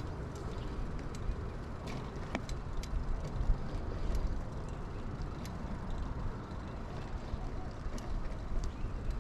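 A 2000 Kona Blast mountain bike being ridden: a steady low rumble of tyres on pavement and wind over a chest-mounted camera, with scattered light clicks and rattles from the bike.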